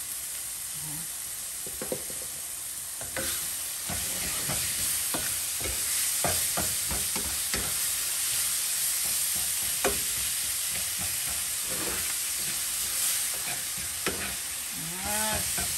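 Minced chicken sizzling as it fries in a pan, stirred with a utensil that scrapes and clicks against the pan, the clicks coming thick from about three seconds in.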